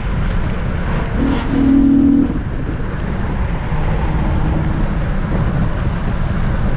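Acura TL SH-AWD's 3.7-litre J37 V6, fitted with pre-cat deletes and long-tube J-pipe, running hard under load, heard from inside the cabin. It gets louder for about a second, around 1.5 to 2 seconds in, then settles to a steady drone.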